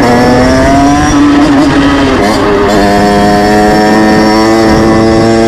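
Motorcycle engine under way, heard from the rider's position: the note drops with a gear change at the start and then holds steady, briefly dipping and recovering a little past two seconds in.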